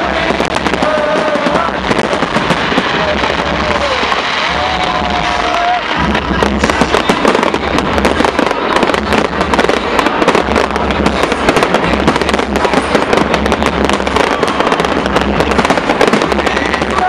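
Large aerial fireworks display: a continuous mass of bangs and crackling from many shells at once, growing denser and sharper from about six seconds in.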